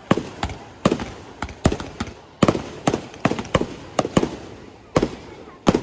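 Fireworks bursting in a rapid, irregular run of sharp bangs, about two or three a second, each trailing a short echo.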